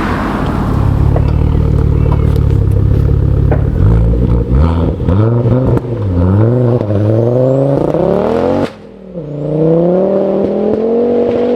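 Stage 3 Mk2 Ford Focus RS with its turbocharged 2.5-litre five-cylinder and big turbo, accelerating hard. The engine holds steady revs for a few seconds, then climbs in pitch, breaks off sharply at a gearchange about nine seconds in, and pulls up again.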